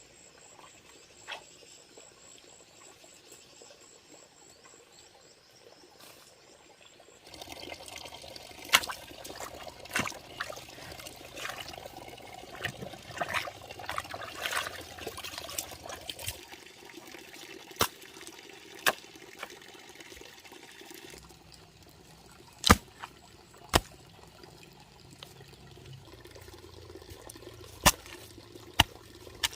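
Water running and splashing, broken by sharp knocks and clatter of things being handled. For the first several seconds there is only a faint, steady insect chirring.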